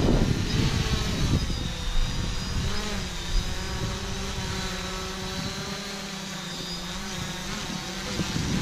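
Quadcopter drone hovering, its propellers giving a steady humming whine made of several held tones. Low wind buffeting on the microphone is heavy at the start, eases off after about three seconds and picks up again near the end.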